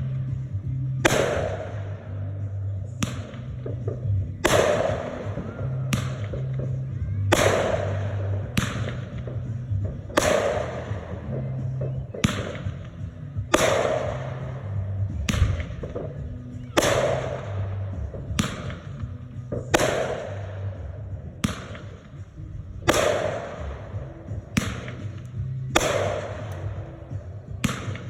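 Red Apple consumer aerial fireworks going off in a steady series, a sharp bang about every second or so, each with a short trailing crackle or echo. Background music with a low bass line plays underneath.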